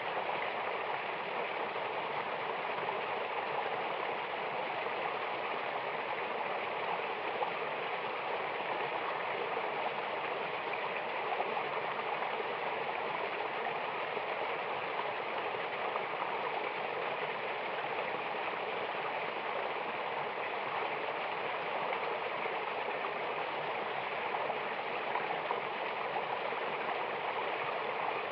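Running water, a steady even rush with no breaks.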